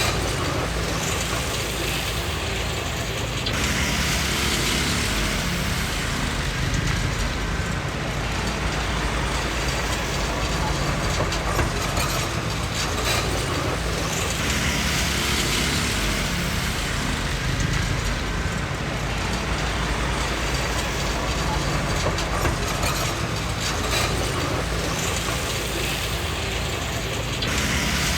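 Komatsu D20P crawler bulldozer at work: its diesel engine runs steadily under the rattle and clank of its steel tracks.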